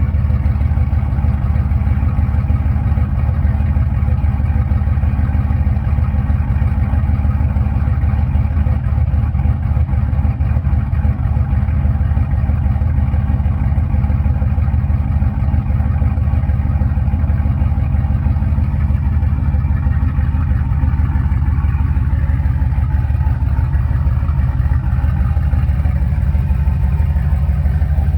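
2008 Chevrolet Silverado's 4.8 V8, with a TSP 218/224 turbo cam, shorty headers and a Carven R muffler dumping before the rear axle, idling steadily after a cold start, its exhaust pulsing with no revving.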